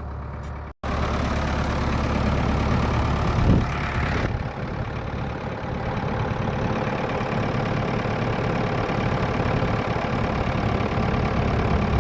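A vehicle engine running steadily, with a single knock about three and a half seconds in.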